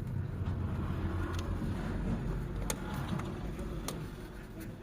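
Car engine running steadily with a low rumble, with three sharp clicks spaced a little over a second apart.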